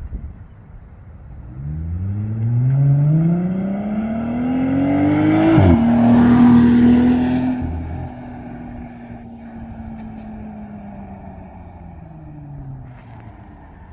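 Jeep Gladiator with its muffler cut out and the resonators left in, heard from inside the cab as it pulls away: the engine note climbs under acceleration, drops sharply at a gear change about five and a half seconds in, then holds briefly and eases off, fading under tyre and road noise. The exhaust stays fairly quiet inside the cab even without the muffler.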